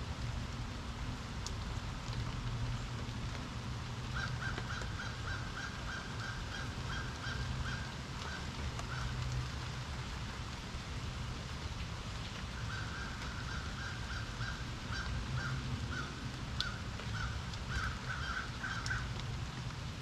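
Steady rain hiss with a low hum underneath. Over it, a bird calls in two long runs of quick repeated notes, the first from about four to nine seconds in and the second from about twelve to nineteen seconds in.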